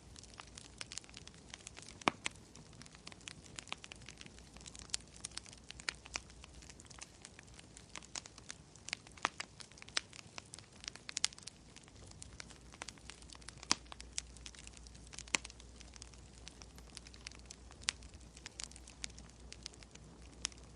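Wood fire crackling: irregular sharp pops and snaps from burning logs, over a faint steady low hum.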